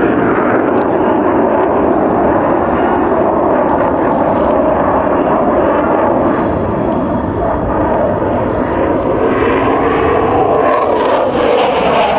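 Mirage 2000D fighter jet's SNECMA M53 turbofan, a loud, steady jet roar from a pass in a flying display. Near the end the tone sweeps and shifts as the jet goes by.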